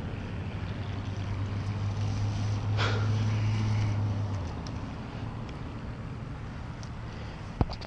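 Wind buffeting the microphone, with a low steady hum that fades out about halfway through, a brief rustle about three seconds in and a sharp click near the end.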